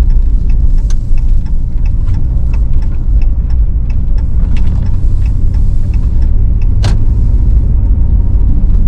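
Car driving along snow-covered streets: a steady low rumble of road and engine noise, with scattered small clicks and ticks.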